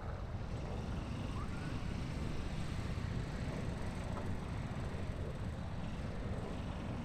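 Steady low rumble of harbor ambience from distant boat traffic and the city across the water, with a few faint, brief higher sounds.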